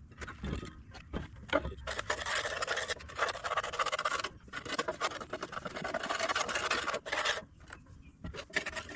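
Dense, rapid scrubbing and scraping strokes on a dirty backhoe air filter housing as it is cleaned of caked dirt, stopping about seven and a half seconds in.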